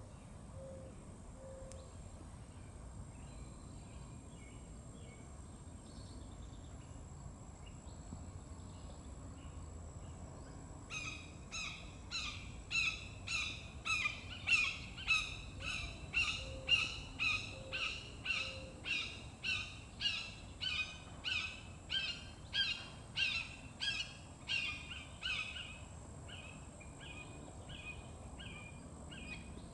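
A bird calls over and over in an even series of loud calls, about two a second, starting about a third of the way in and stopping a few seconds before the end. Soft low hooting notes come three at a time, once at the start and once midway, over a steady hiss of outdoor background noise.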